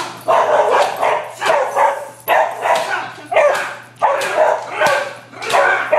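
Protection-trained dog barking on its handler's alert command. The barks are loud, come in rapid succession at about two a second, and start suddenly.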